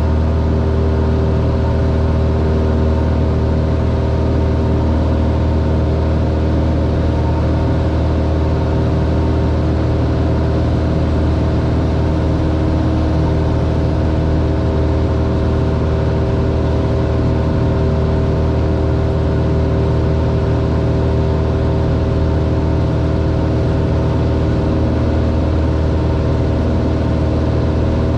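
Cessna 182R's six-cylinder Continental piston engine and propeller running steadily, heard inside the cabin as an even, unchanging drone.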